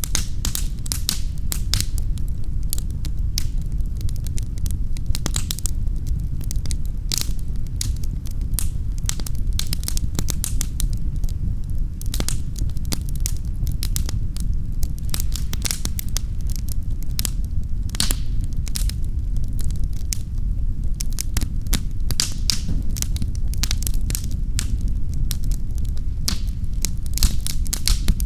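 Wood fire crackling in a fireplace: many irregular sharp snaps and pops, several a second, over a steady low rumble of the burning fire.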